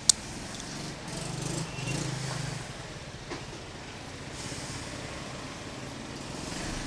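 Street traffic: a motor vehicle's engine passes, loudest from about one to three seconds in, over a steady traffic hiss. A single sharp click right at the start.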